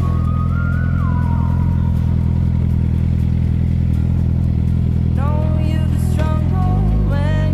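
Suzuki GSX-R SRAD sport motorcycle's inline-four engine running at steady, unchanging revs. From about five seconds in, higher wavering tones rise over it.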